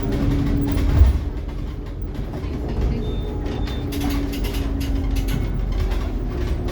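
Interior noise of a Scania K360IB articulated-length city bus under way: low drivetrain drone with a steady hum, a sharp bump about a second in, and interior rattles and clicks around the fourth and fifth seconds.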